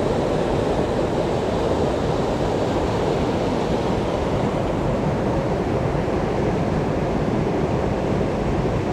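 Mountain stream water rushing in a steady, even roar close to the microphone.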